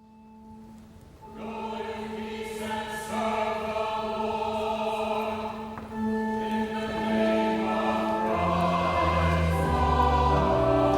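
Church choir singing a slow, sustained choral response in held chords. A single soft held note comes first, the full choir enters about a second and a half in, and deep bass notes join past the middle as it grows louder.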